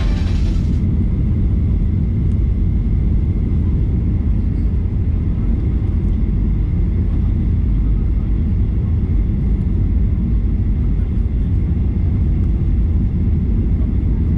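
Steady cabin noise inside a Boeing 737-800 airliner: a deep, even rumble of the CFM56 engines and airflow, with a faint steady whine.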